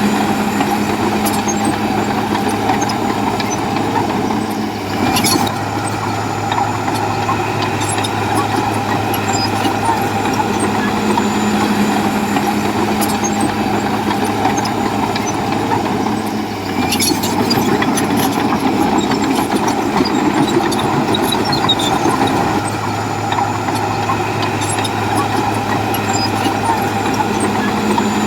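Komatsu bulldozer's diesel engine running steadily, with a few sharp clicks and knocks, at about 5 and 17 seconds in.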